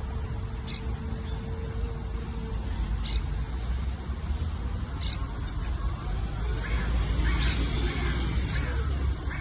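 Parrots calling: short high chirps every couple of seconds, then a run of squawks about seven to nine seconds in. A steady low rumble runs underneath, with a faint steady hum over the first couple of seconds.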